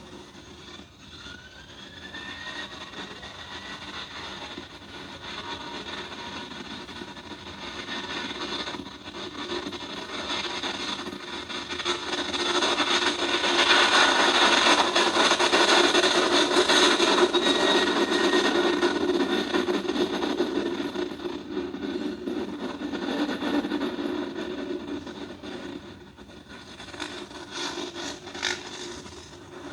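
Jet airliner passing by: engine noise swells to a peak about halfway through and then fades away, with a faint rising engine whine near the start.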